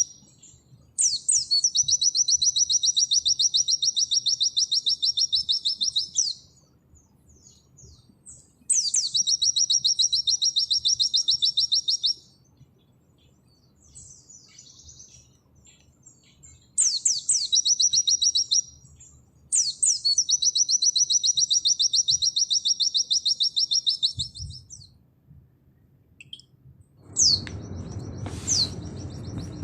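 White-eye (pleci) singing its long, fast 'nembak' song: four extended bursts of rapidly repeated high notes, each opening with a sharp sweeping note, with short pauses between them. Near the end a steady low noise comes in under a couple of short high calls.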